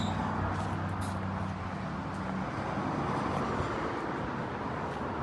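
A motor vehicle engine running steadily with a low hum, which drops out about two and a half seconds in, over steady traffic-like noise.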